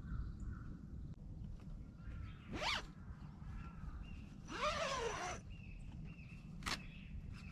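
Short rasping handling sounds: a quick rising sweep, then a longer rasp about two seconds later, and a sharp click near the end, over a low steady rumble.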